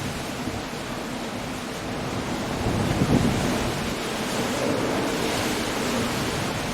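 Coastal storm: steady heavy rain and wind, with a low rumble swelling and fading about halfway through.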